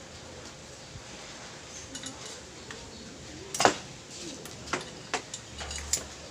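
Metal hand tools and small carburettor parts clinking and tapping during carburettor disassembly: a few sharp separate clinks in the second half, the loudest about three and a half seconds in.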